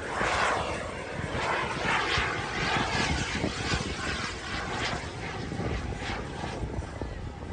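Radio-controlled model airplanes flying overhead, their engine and propeller noise swelling and fading several times as they pass.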